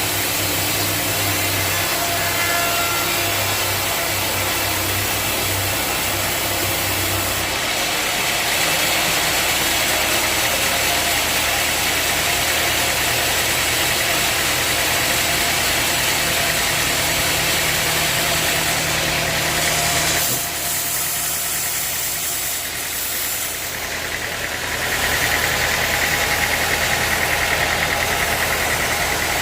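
Sawmill machinery running steadily: an engine-driven saw with a constant low hum under broad noise. The low hum shifts about seven seconds in and the sound drops briefly around twenty seconds in. A higher steady whine comes in near the end.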